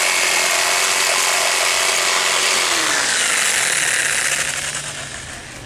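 Handheld electric power tool running at a steady full speed, then spinning down with a falling pitch as the trigger is released about three seconds in.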